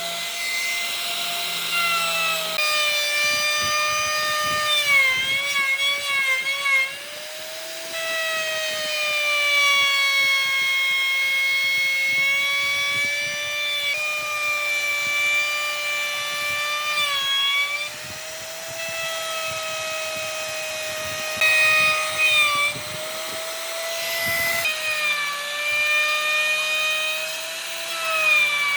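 Electric power tool motor whining as it works wood, its pitch sagging and recovering as it is pressed into the work. Short stretches of rough cutting noise come in a few seconds in and again about three quarters through.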